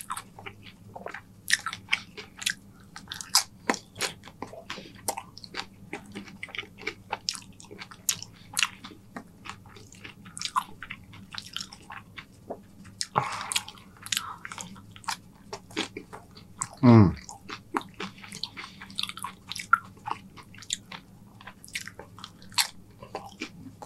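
Close-miked crunching and chewing of loaded tortilla-chip nachos, a stream of sharp irregular crunches as the chips are bitten and chewed. A short vocal sound from the eater, falling in pitch, breaks in about 17 s in.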